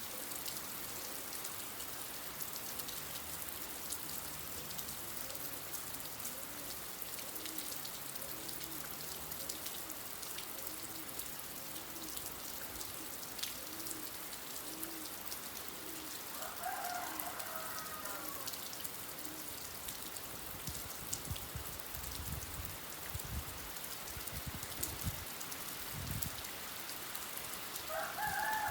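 Steady rain falling, with a bird calling twice, once about two-thirds of the way through and again at the very end. A few low thuds come in between the two calls.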